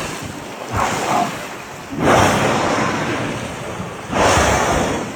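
Sea water surging and splashing against a boat, three swells of rushing noise about a second and two seconds apart, the last two the loudest, with wind on the microphone.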